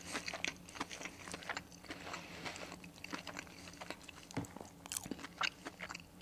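Close-up chewing of a mouthful of crispy breaded chicken burger, with irregular crunching crackles.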